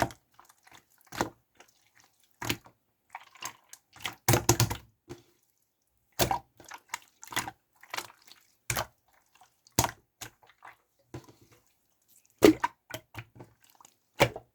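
Clear pink slime being pressed and pulled by hand, making irregular wet clicks and sticky pops, a few louder than the rest.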